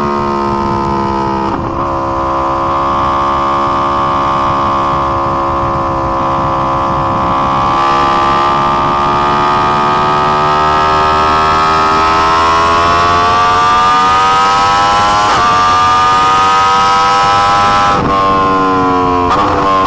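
2020 Yamaha R1's crossplane inline-four engine running hard at high revs, its note climbing slowly through the middle. The note breaks briefly at gear changes, once early and several times near the end.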